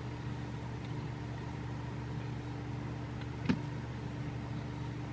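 Steady low mechanical hum holding constant pitches, with a single sharp click or knock about three and a half seconds in.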